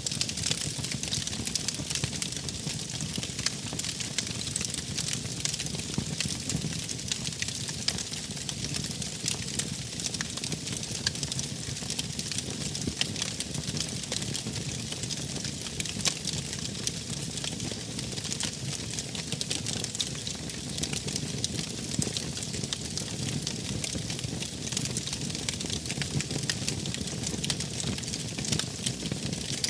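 Wood fire crackling and popping steadily over a low, constant rumble of burning.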